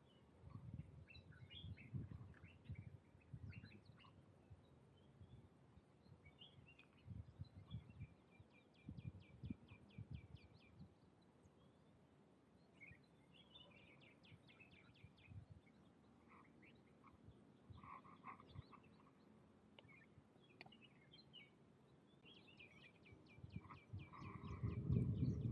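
Small birds chirping outdoors, with several quick trills of rapidly repeated notes. There are low muffled bumps on the microphone, loudest near the end.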